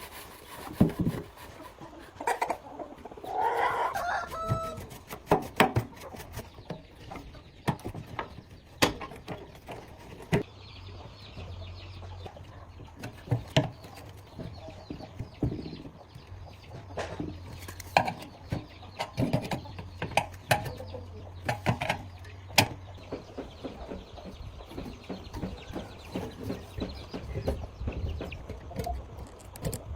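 Scattered knocks and clicks throughout, with an animal call about three seconds in, which sounds like a chicken. A low steady hum comes in about ten seconds in.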